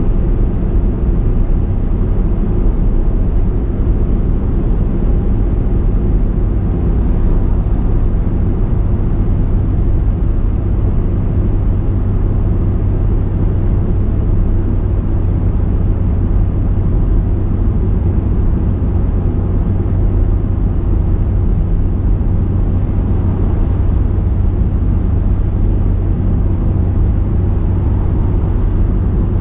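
A car driving steadily, with a low, even rumble of road and engine noise that does not change.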